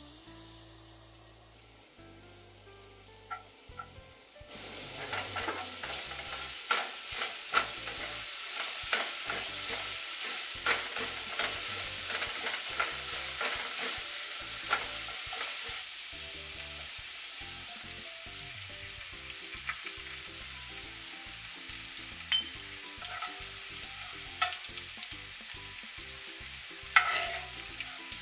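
Chopped ginger and garlic sizzling as they fry in sesame oil in a nonstick skillet, stirred and scraped around the pan with small clicks of the utensil. The sizzle gets much louder about four seconds in and drops back to a gentler level about sixteen seconds in.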